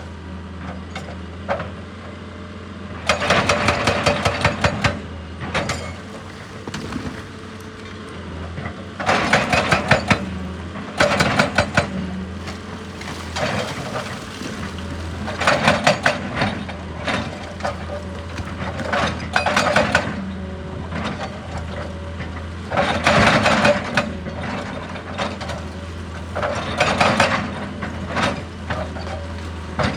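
Excavator's diesel engine running steadily, with repeated bursts of rapid hammering every few seconds, each lasting one to two seconds: a hydraulic breaker striking rock.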